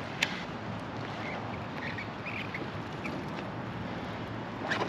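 A few faint, short bird calls over a steady outdoor hiss, with one sharp click about a quarter second in.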